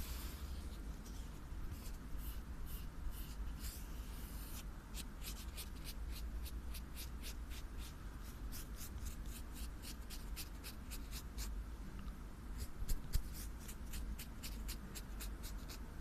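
Close-miked scratching strokes, short and crisp, repeated at about three a second, over a low steady hum.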